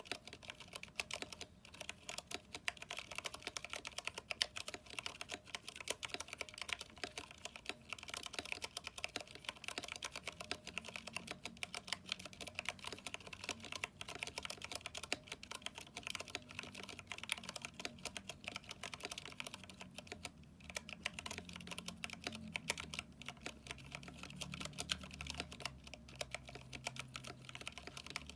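Continuous fast typing on a mechanical keyboard with PBT keycaps and Cherry MX Brown switches: a dense run of keystroke clacks, with a brief pause about two-thirds of the way in.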